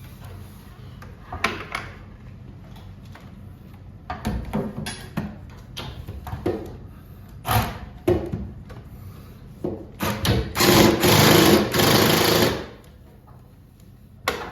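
An impact driver hammering in one long burst of about two and a half seconds near the end, driving a fastener on a garage door torsion spring assembly. Before it come scattered metal clanks and knocks from handling the tools and hardware.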